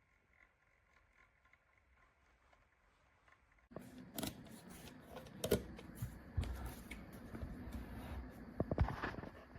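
Faint background until about four seconds in, then a sudden run of clicks, taps and rustling, like an object being handled, with a few louder knocks.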